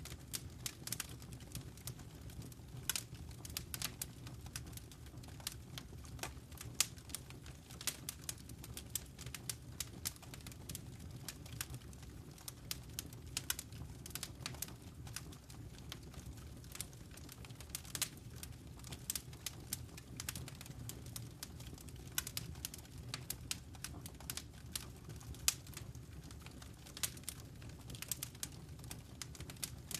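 Wood fire crackling in a fireplace: irregular sharp pops and snaps at random intervals over a steady low rumble.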